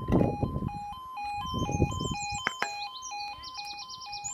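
Level crossing warning alarm sounding: an electronic two-tone yodel that alternates evenly between a lower and a higher note, about two full cycles a second.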